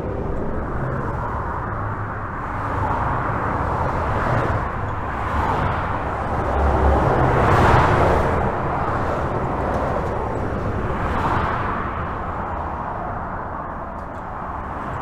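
Continuous highway traffic heard from under a bridge: a steady rush of tyre and engine noise that swells as individual vehicles pass, the loudest pass about halfway through.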